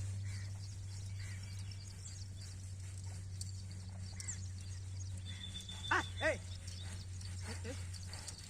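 Bullock cart on the move: the bullocks' hooves clopping, faint and uneven, over a steady low hum. Two short, loud pitched calls come about six seconds in.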